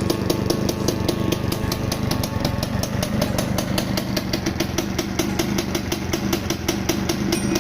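Two-stroke Yamaha motorcycle engine idling steadily with an even, rapid pulse.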